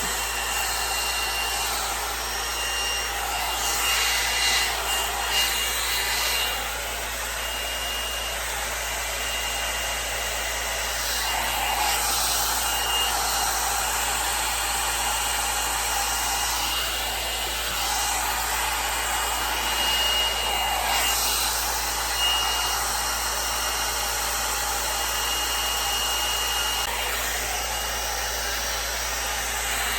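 L'ANGE HAIR Le Volume 2-in-1 oval-barrel blow dryer brush running steadily, a hiss of blown air with a thin high whine, and a few louder swishes as the brush is drawn through hair.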